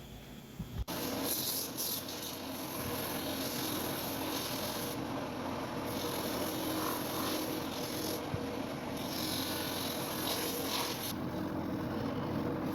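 Shoe-repair sanding machine starting about a second in and running steadily, grinding on a boot sole; the high rasping part drops away briefly a few times.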